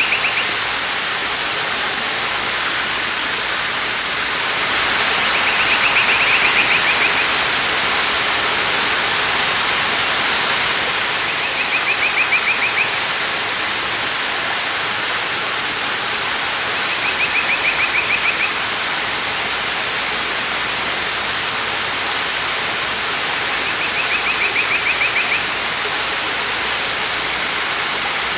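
Waterfall rushing steadily, swelling a little louder for a few seconds, while a bird repeats a short rapid trill about every six seconds, four times.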